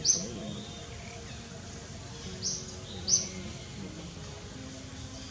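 Short, sharp, high-pitched bird chirps: one right at the start, then two more close together about two and a half and three seconds in. They stand over a steady outdoor background hiss.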